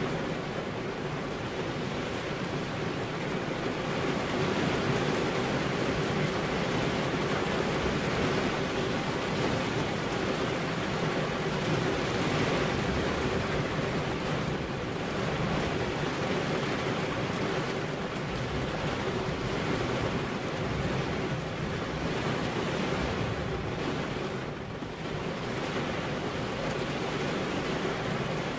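Steady heavy rain, a dense even hiss, easing briefly near the end before it picks up again.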